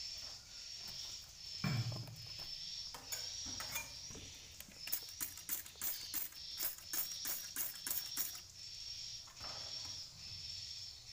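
Swiftlet calls inside a swiftlet house: a high chirp that repeats about every two-thirds of a second. A dull thump comes about two seconds in, and a quick run of sharp clicks follows from about five to eight seconds.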